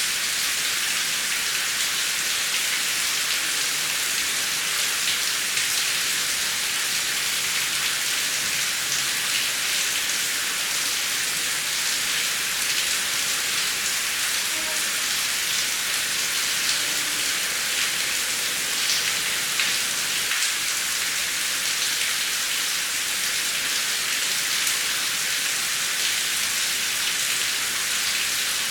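Steady heavy rain: a dense, even hiss of many drops, with the ticks of single drops falling on a surface.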